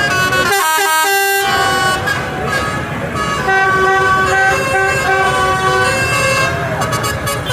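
Vehicle horns from a procession of tractors and trucks, several steady horn tones held and overlapping over the rumble of engines.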